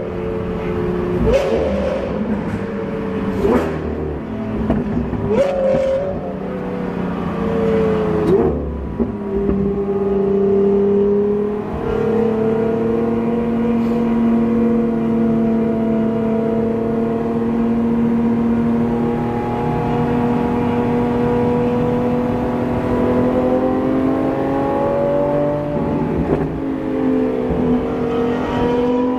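Sports car engine with a loud exhaust accelerating hard through the gears: its pitch climbs and drops back at each of about four quick upshifts, with a sharp crack at each shift. It then holds one long, slowly rising pull in a single gear, easing briefly near the end before climbing again.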